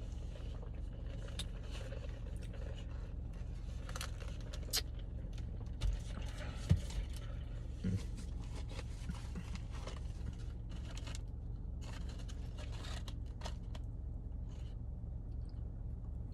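Handling of fast-food wrappers and paper packaging: scattered scrapes, crinkles and small clicks, with a few soft knocks in the middle, over a steady low hum.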